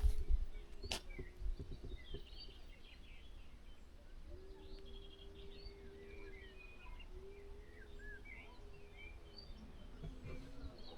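Faint songbirds chirping and whistling in short scattered calls, over a low rumble and a faint steady low hum through the middle.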